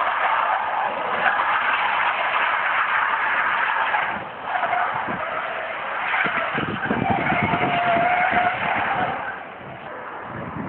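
A car driving on a wet road, its engine running under a steady rush of road and rain noise. A steady whine joins for a couple of seconds past the middle.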